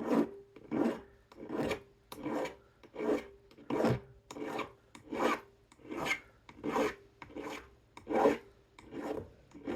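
Rhythmic hand strokes of a half-round file or sanding tool rasping along the edge of a sawn sterling silver piece, about fourteen strokes at an even pace. The work is smoothing out saw marks.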